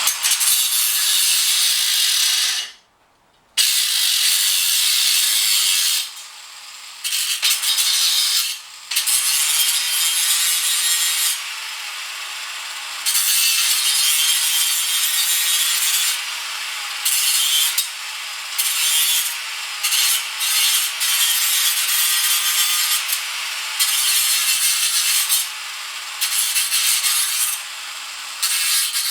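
Harsh rasping of metal being worked down by abrasion, in long stretches broken by short pauses, with a near-silent gap about three seconds in: a nut on the mirror's mounting stud being taken down so it clears the mirror.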